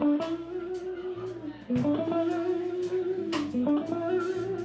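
Live blues band playing an instrumental: an electric guitar holds long notes that slide up into pitch three times, over a bass line and drums with cymbal hits.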